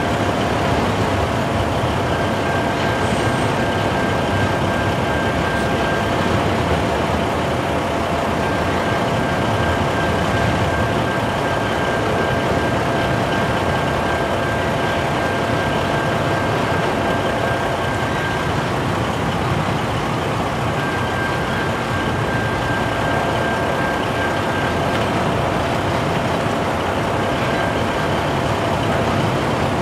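Double-stack container freight train rolling steadily past, its wheels running over the rails in a continuous roar, with a semi truck idling close by. A thin high tone comes and goes several times over the noise.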